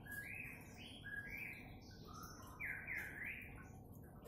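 A bird chirping: a quick series of short, repeated notes, fairly faint, loudest a little past the middle.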